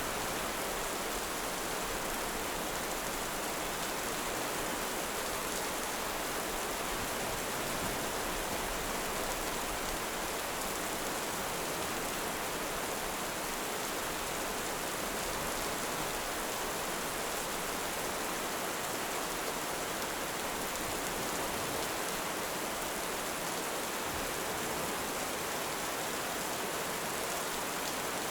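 Heavy rain falling steadily, an even hiss at a constant level with no thunder or distinct crackles.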